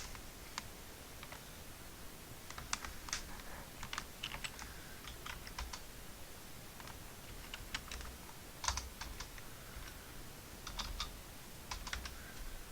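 Typing on a computer keyboard in short, irregular bursts of keystrokes, re-entering case-sensitive login details.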